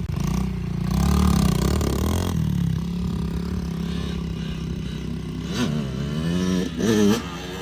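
Small dirt bike engine running, its pitch rising and falling as the throttle is worked, most strongly about a second in and again near the end.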